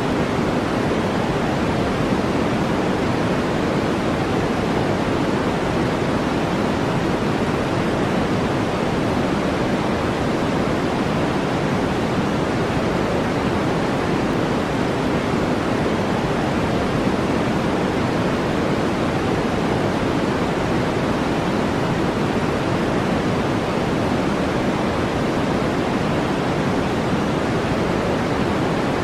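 Steady brown noise: a deep, even rushing hiss that does not change.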